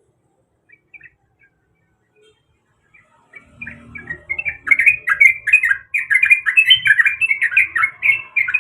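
Yellow-vented bulbul (trucuk) singing in full voice: a fast, continuous run of short chirping notes that starts about three and a half seconds in, after a few faint scattered notes.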